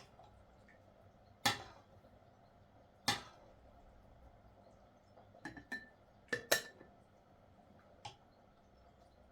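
Dishes, glassware and utensils being handled and set down: several separate sharp clinks and knocks at irregular intervals, a few with a short ring.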